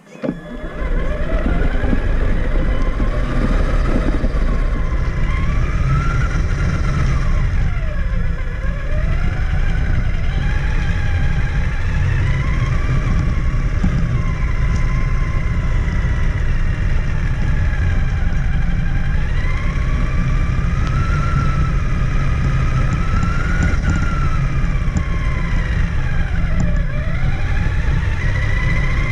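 Traxxas Summit electric RC truck driving, with its motor and drivetrain whine rising and falling in pitch as the throttle changes, over a loud low rumble. It starts up about half a second in.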